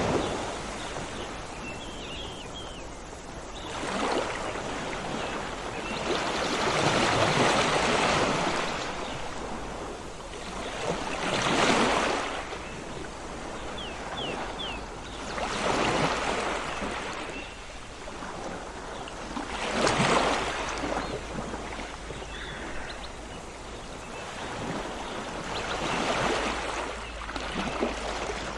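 Sea waves breaking and washing onto the shore, swelling and fading every few seconds, with a few faint, short bird chirps between them.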